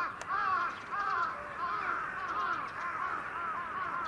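Birds calling: a run of short, arching calls, two or three a second and overlapping one another, loudest near the start.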